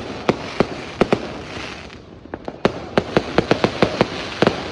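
New Year fireworks and firecrackers going off in a string of sharp, irregular bangs. The bangs come quicker and closer together in the second half, over a steady hiss of distant crackle.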